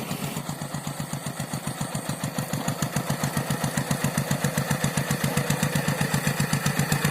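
Rice-field tractor's engine running at an even chugging beat of several pulses a second while plowing, growing gradually louder.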